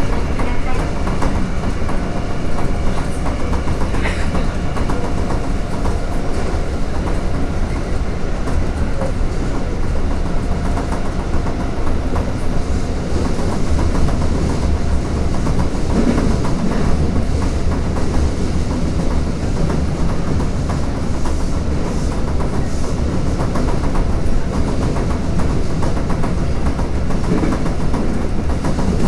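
Toei Asakusa Line 5300 series subway train running, heard from inside the car: a steady rumble of wheels on the rails with a clickety-clack. A faint whine of several tones fades out over the first few seconds.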